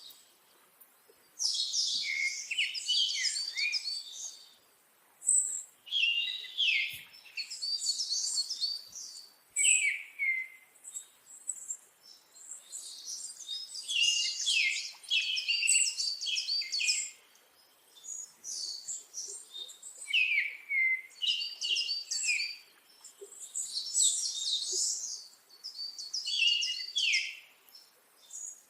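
A songbird singing: high, quick chirping phrases a second or two long, repeating after short pauses.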